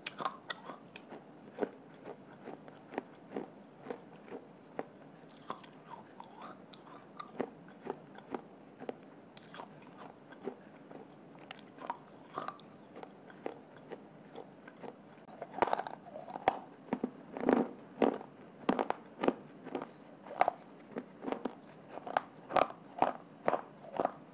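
A person biting and crunching hard baked clay and slate pencil pieces, with sharp crunches between chews. The crunches come sparse and soft at first, then louder and quicker from about two-thirds of the way in, around two a second.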